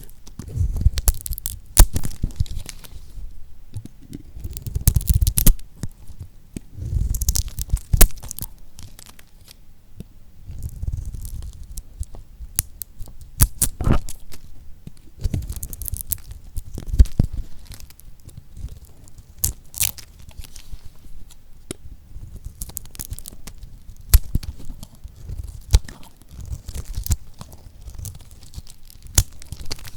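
Knife cutting through lacquered soap: irregular crisp crunches and sharp cracks, with louder spells of crunching every few seconds.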